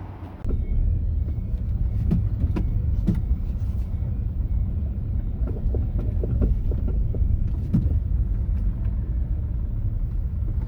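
Low, steady rumble of a 2010 Hyundai Elantra (Avante HD), apparently running or being driven, starting abruptly about half a second in, with many light clicks and knocks scattered through it.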